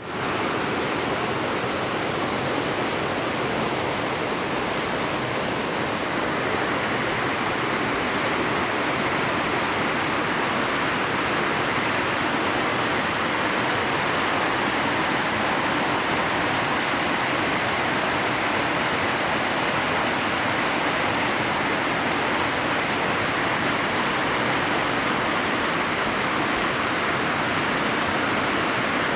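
A swollen river after heavy rain, its floodwater rushing in a loud, steady roar.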